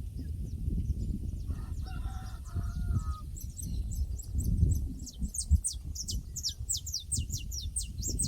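Pasture soundscape: a rooster crows once, a little over a second long, about two seconds in. A small bird then sings a fast run of short, falling high chirps, over a steady low rumble.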